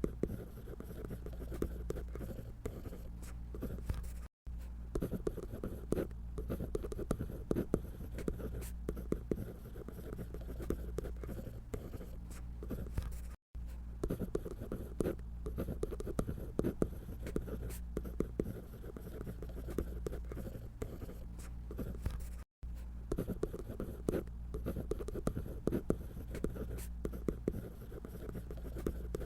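Drawing on paper: quick, continuous scratchy strokes of a drawing tool, over a low steady hum. The sound cuts out to silence for a split second three times.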